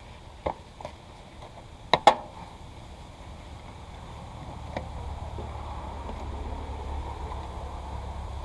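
A few sharp clicks and knocks, the loudest pair about two seconds in, then a steady low mechanical hum that slowly grows louder over the second half.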